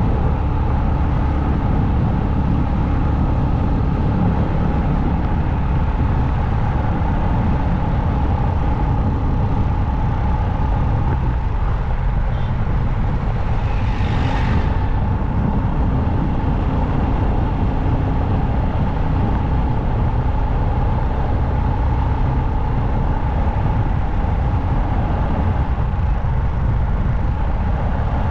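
Motorcycle cruising on a highway: steady wind and road rush with a steady engine tone underneath, and a brief whoosh about halfway through, as of a vehicle passing close by.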